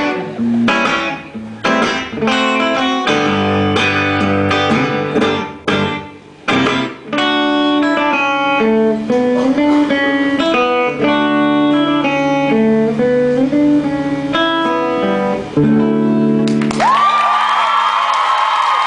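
Guitar playing the instrumental outro of a song: quick picked notes, then slower single notes and a final chord left ringing. About two seconds before the end the audience breaks into cheering and whistling.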